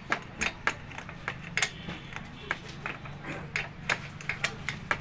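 Irregular sharp clicks and taps, several a second, over a steady low hum: metal tools and parts being handled during motorcycle engine repair work.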